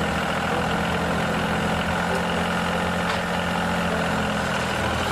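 A vehicle engine idling steadily: an even, unchanging low hum.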